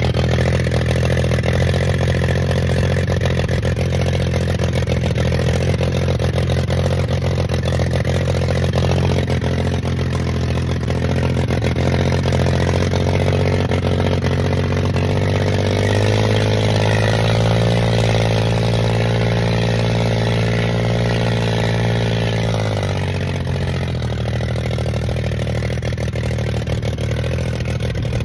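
Dirt bike engine running steadily, with a loud, even drone. It rises in pitch about halfway through and settles back down a few seconds later.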